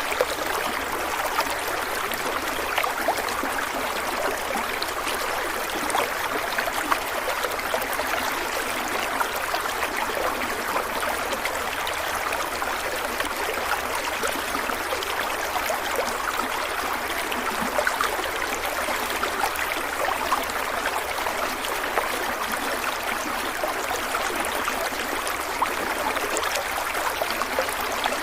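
A stream of water running and splashing steadily over stones, with small gurgles and splashes throughout.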